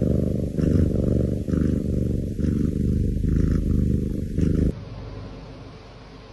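Domestic cat purring close to the microphone, a low buzzing purr that swells and dips with each breath, then drops off sharply about four and a half seconds in.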